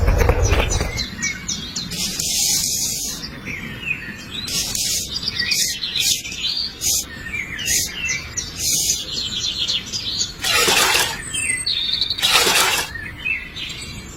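Small birds chirping and twittering repeatedly, with several short rushing noise bursts of a second or less in between, two of them near the end.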